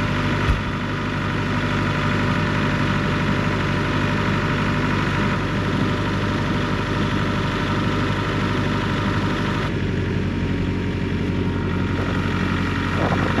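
A vehicle engine idling steadily, with a brief knock about half a second in. A little before ten seconds in, some of the higher part of the engine sound drops away.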